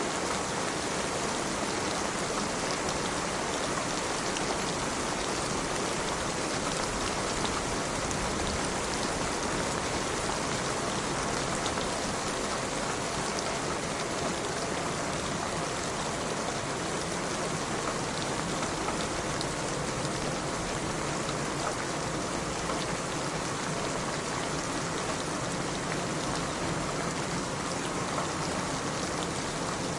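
Steady rain falling, a dense, even hiss of drops with small scattered individual drop ticks.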